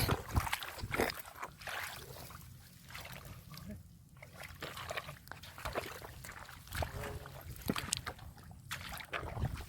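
Irregular splashing and sloshing of shallow muddy water, with scattered short wet slaps and clicks, as hands grope through water and mud for fish.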